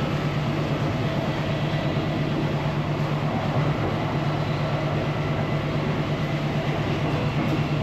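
Interior of a moving Indonesian passenger train carriage: steady running noise with a constant low hum.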